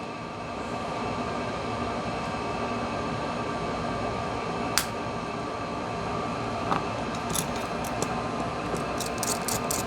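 Small sharp plastic clicks as the Honor 70's screwed-down inner cover is pried loose: one about halfway through, then a quick run of them near the end. A steady hiss lies under them.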